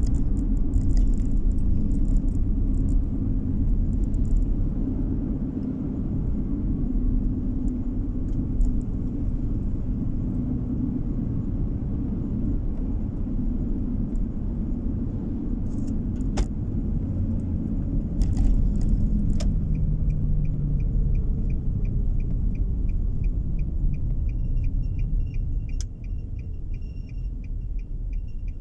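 Car interior on the move: steady low road and tyre rumble with engine noise. About two-thirds of the way in, a fast regular ticking of the turn-signal indicator starts, and the rumble eases off near the end as the car slows.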